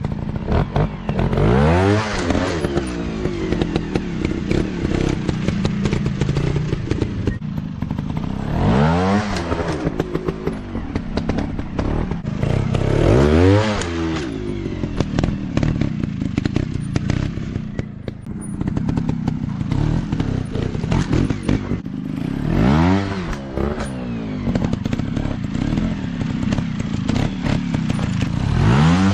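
Dirt bike engines running, their pitch rising and falling again about five times as they are revved up and eased off.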